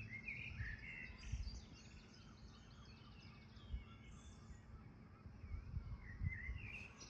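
Faint birdsong: small birds chirping and warbling in short phrases, mostly in the first second and a half and again near the end, over a quiet outdoor background with a few brief low thuds.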